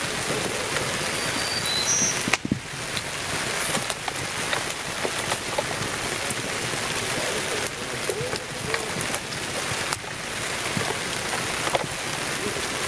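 Steady rain falling on a tarp shelter overhead, a constant hiss with scattered light clicks.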